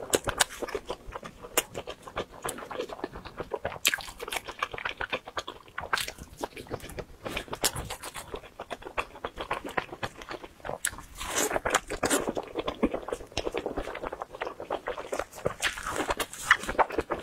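Close-miked chewing and biting of fried skewer food: a steady run of wet mouth clicks and smacks with light crunches, coming in louder clusters with each new bite.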